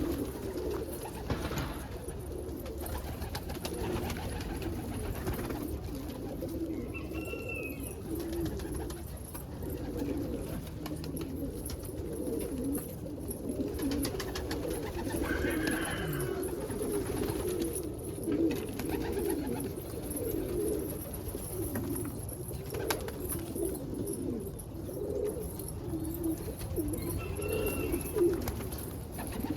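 Pet birds cooing continuously in low, warbling coos, with three brief higher calls spread through.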